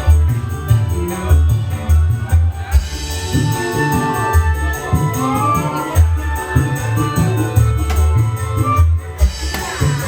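Dangdut band playing: a hand-played kendang drum beat with tambourine jingles, and a gliding melody line above.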